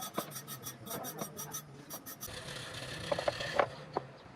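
Wood being scraped by hand in rapid back-and-forth strokes, about five a second, stopping a little over two seconds in. A steadier hiss follows, with a few sharp knocks near the end.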